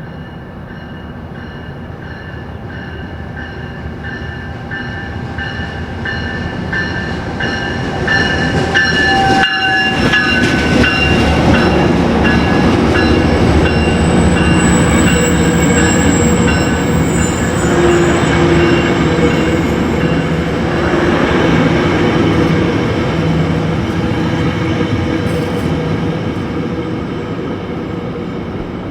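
A train rolling past at close range, its wheels rumbling and clacking on the rails, with a thin high steady squeal from the wheels. It grows louder to a peak about halfway through, then slowly fades.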